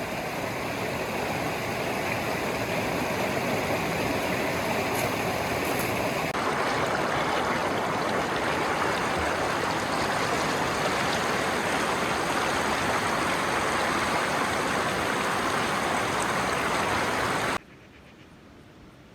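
Steady rushing of running water, like a stream. About a second and a half before the end it cuts off abruptly to a much quieter background.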